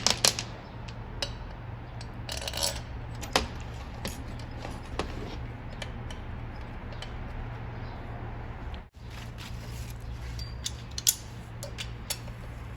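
Scattered metallic clinks, taps and scrapes of hand tools and bolts against engine metal as a cylinder head is fitted, over a steady low hum.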